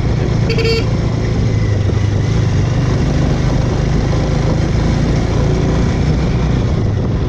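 Bajaj Avenger motorcycle's single-cylinder engine running steadily while riding, a constant low hum under road noise. A short beep sounds about half a second in.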